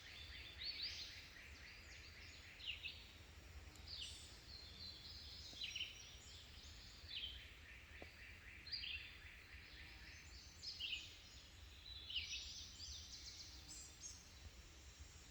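Woodland birds singing, short chirps and falling trills repeating every second or so, over a faint steady low hum.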